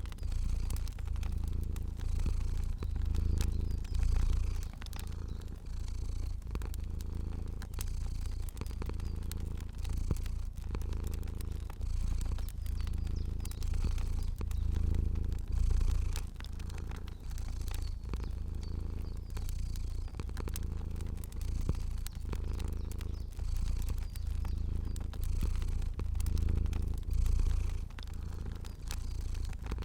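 A domestic cat purring steadily, the purr swelling and easing every second or two with its breathing, over a fire's light crackle of scattered small pops.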